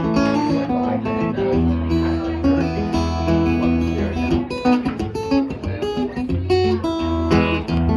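Acoustic guitar playing an instrumental passage of a folk song, with notes picked and strummed over a steady bass line.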